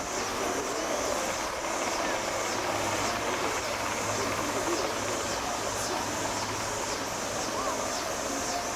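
A Marine Corps helicopter running nearby, a steady drone of engine and rotor with a faint pulse repeating about twice a second.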